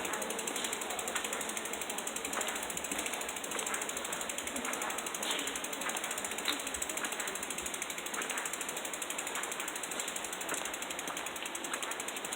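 Bicycle rear hub freewheel ticking rapidly as the bike coasts without pedalling, over a steady rush of tyre and wind noise, with a few sharper clicks.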